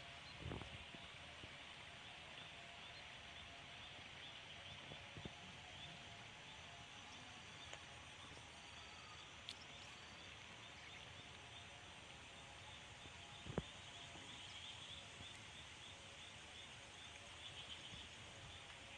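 A dense chorus of frogs calling steadily, with a few faint clicks and one sharper click about two-thirds of the way through.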